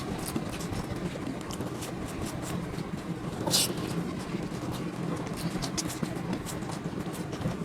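Steady background hum with low murmured voices and scattered short clicks, one louder click about three and a half seconds in.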